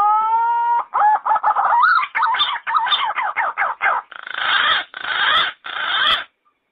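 Yellow-footed green pigeon calling: a rising whistled note, then a quick run of wavering, warbling notes, ending in three longer harsh, raspy notes.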